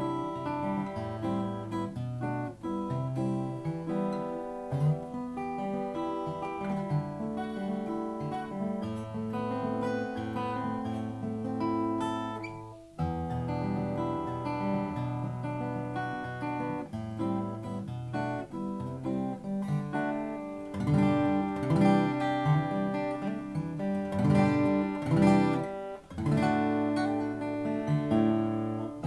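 Solo acoustic guitar with an Alpine spruce top and black wood back, playing a plucked melody over bass notes. There is a short break about halfway through, and the second half has louder strummed passages.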